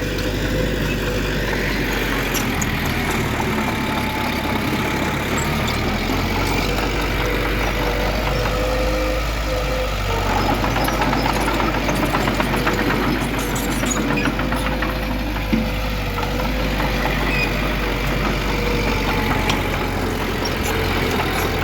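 Diesel engine of heavy earthmoving machinery running steadily, with a steady whine over the low engine sound.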